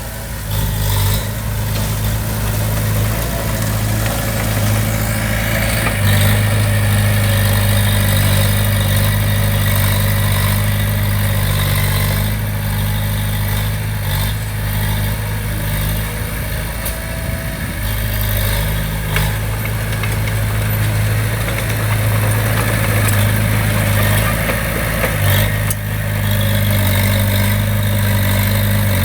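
Heavy earthmoving machine's diesel engine running steadily under work. Its note shifts in pitch and loudness a few times, with a few brief knocks.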